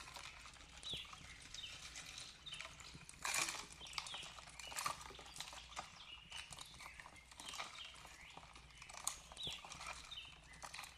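Wood fire crackling, with irregular pops and snaps, a louder cluster about three seconds in. Small birds chirp short repeated notes in the distance over a soft, steady hiss of flowing water.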